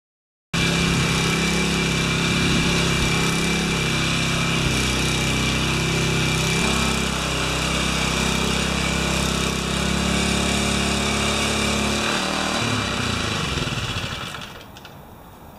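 Small gasoline rototiller engine running steadily under load while tilling soil, its pitch shifting a few times. The sound falls away over the last couple of seconds.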